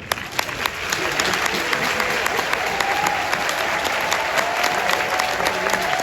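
Large stadium crowd applauding and cheering, the clapping breaking out at once and swelling within the first second, then holding steady with scattered voices calling out.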